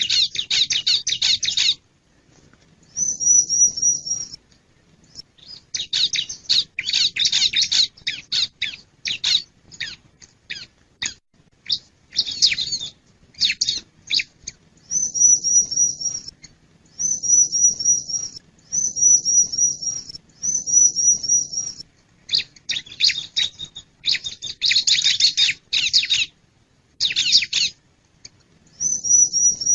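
Bar-winged prinia (ciblek) singing busily: bursts of rapid chirps alternate with higher phrases of evenly repeated wavy notes, each phrase a second or two long with short pauses between.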